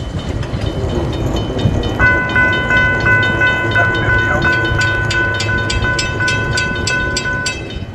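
Florida East Coast Railway freight train rolling by, a steady low rumble with wheel clatter. About two seconds in, a steady ringing tone joins, pulsing with quick regular clicks, and it stops abruptly near the end.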